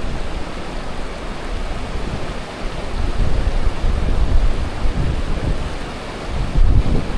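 Strong wind buffeting the microphone: a rough, gusting rumble that swells and eases, louder about three seconds in and again near the end.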